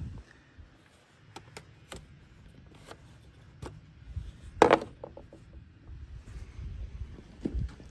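Tools and parts being handled: scattered light clicks and knocks, with one louder clunk about halfway through, over a low rumble.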